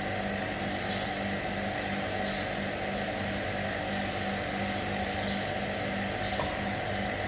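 A small engine running steadily, with an even pulsing hum.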